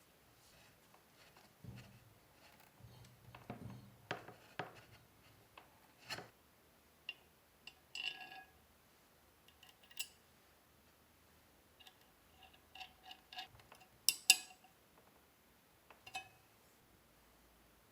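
Small metal parts and hand tools being handled: scattered clicks, taps and clinks, a few ringing briefly, the loudest a pair of sharp knocks late on.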